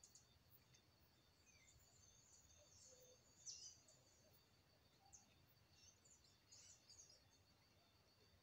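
Faint, scattered high chirps of small birds, the loudest about three and a half seconds in, with a few more a little later.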